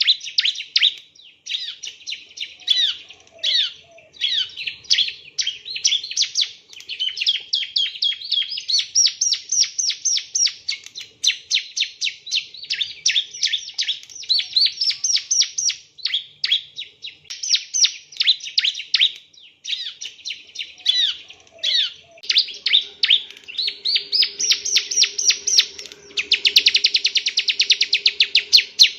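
Bar-winged prinia (ciblek) singing a rapid, nearly unbroken string of high chirps and sweeping notes. Near the end it runs into a dense fast trill.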